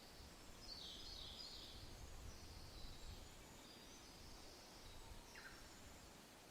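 Faint soft wind with birds chirping: a low wind rumble swells for the first few seconds, and birds give high, short chirps and trills throughout, one with a quick falling note about five seconds in.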